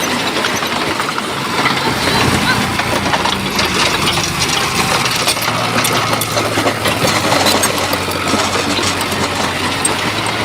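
Heavy diesel engine of a bulldozer running steadily, with scattered clatter over the engine drone.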